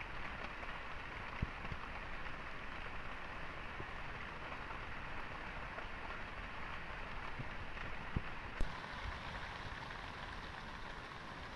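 Heavy rain falling steadily, with a few sharp taps or knocks, one about a second and a half in and two around eight seconds in.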